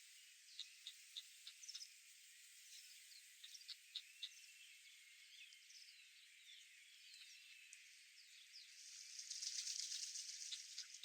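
Faint songbird calls: scattered short chirps and a few thin whistles. Near the end a brief high hiss swells and fades.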